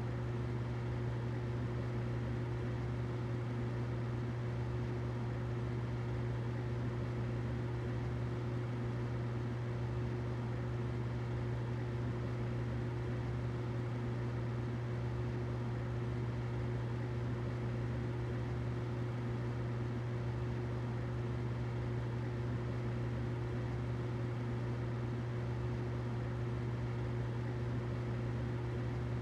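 Humidifier running steadily: a constant low hum with a fainter, higher steady tone over an even hiss.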